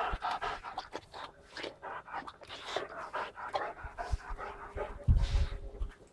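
Boxer puppy panting quickly in a steady run of short breaths. A loud low thump comes about five seconds in.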